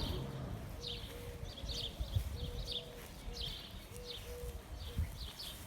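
Birds chirping over and over in quick high notes, a few each second, with a lower short note repeating alongside.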